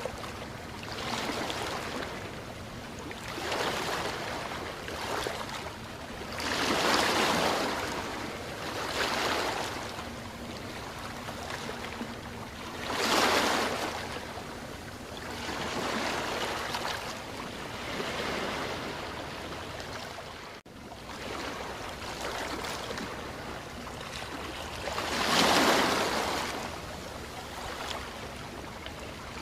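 Sea waves breaking on a beach, a rushing wash that swells and fades every few seconds, with three larger breakers standing out.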